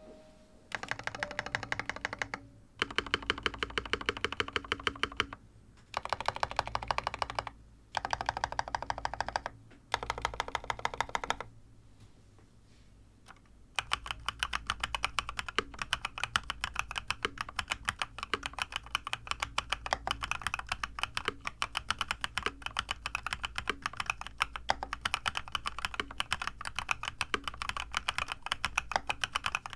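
Custom mechanical keyboard with freshly lubed switches (Krytox 205g0, springs in Krytox 105), Permatex-greased stabilizers and a tape mod, being typed on as a sound test. Five short bursts of rapid keystrokes come first, then a pause of about two seconds near the middle, then steady fast typing.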